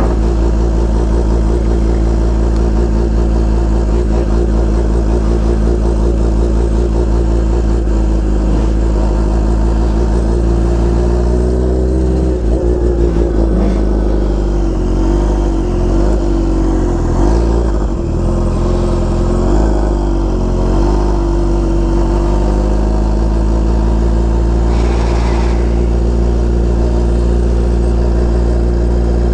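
Kawasaki Ninja H2R's supercharged inline-four engine running at low speed, with its note rising and falling in several short revs about halfway through before settling steady again.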